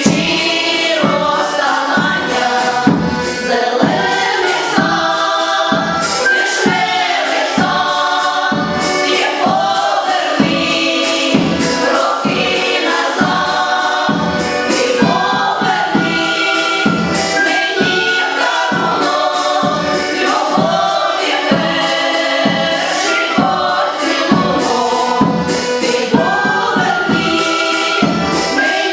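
A choir singing a song over an accompaniment with a steady beat.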